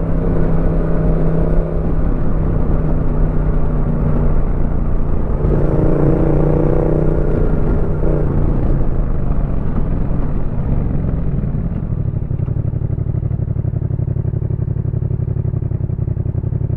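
Exhaust of a Yamaha MT-07's parallel-twin engine through a Roadsitalia aftermarket exhaust, running at low to moderate revs with small changes in pitch. About twelve seconds in it settles into a steadier, slightly quieter low beat.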